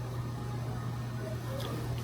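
Steady low hum over room noise, with a faint short click about one and a half seconds in.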